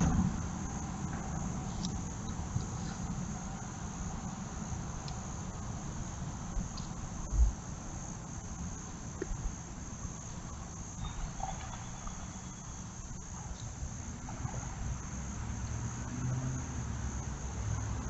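A steady high-pitched insect chorus over a low outdoor rumble, with one brief low thump about seven seconds in.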